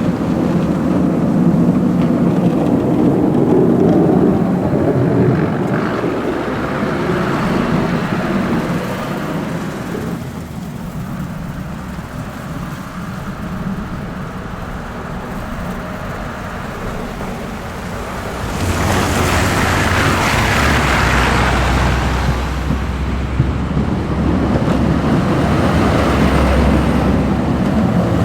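Snow plow trucks passing, with heavy diesel engines running and plow blades pushing snow in a rushing, surf-like spray. The noise eases off in the middle, then a louder pass with a deep engine rumble comes in about two-thirds of the way through.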